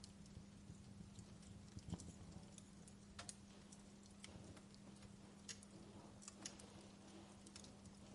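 Wood fire burning in a fireplace, faint irregular crackles and small pops scattered through, over a soft hiss and a steady low hum.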